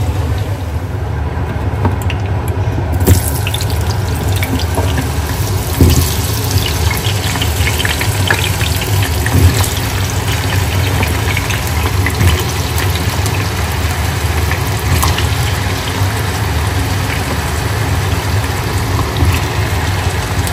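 Potato chunks frying in hot oil in a nonstick frying pan: steady sizzling full of small pops and crackles, which gets brighter about three seconds in, over a steady low hum.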